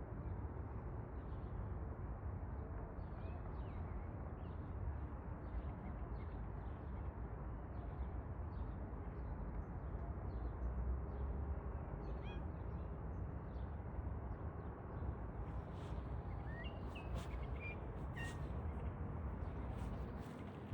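Outdoor ambience: a steady low rumble with birds chirping faintly and repeatedly over it, and a few sharp clicks or rustles in the last few seconds.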